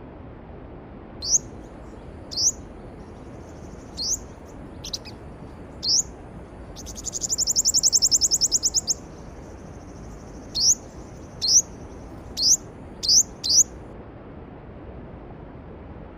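A songbird calling with short, sharp rising notes, about ten in all, broken up by a loud fast trill lasting about two seconds, over the steady rush of a mountain stream.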